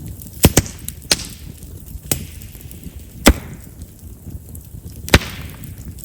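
Chestnut firewood crackling in an open fire: sharp pops and snaps, loudest about half a second in, near three and a quarter seconds and after five seconds, over a low steady rustle of flames. Chestnut's large vessels make it a wood known for popping as it burns.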